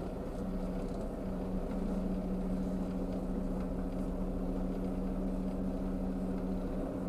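Diesel engine of a semi-truck running steadily at low speed, an even hum.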